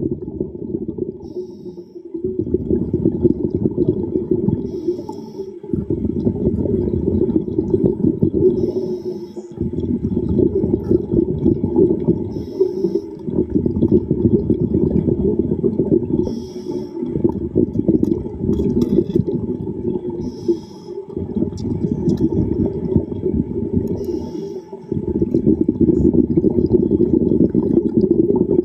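Scuba diver breathing underwater through a regulator: a rush of exhaled bubbles lasting about three seconds, broken every four seconds or so by a short hiss of inhaling.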